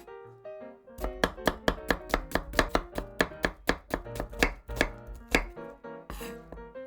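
Kitchen knife chopping vegetables on a cutting board in a quick, even rhythm of about five strokes a second, which stops about a second before the end.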